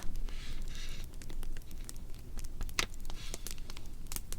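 Wood fire crackling: irregular small pops and snaps, with a sharper pop about halfway through.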